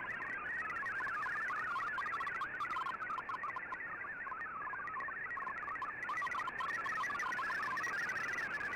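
MFSK digital data signal from a shortwave broadcast heard through the receiver's speaker: a rapid, warbling stream of short tones hopping among many pitches, over faint band hiss.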